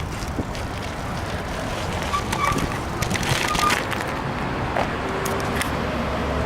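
Wind rushing over the microphone during a bicycle ride, with scattered clicks and rattles and a few short high tones.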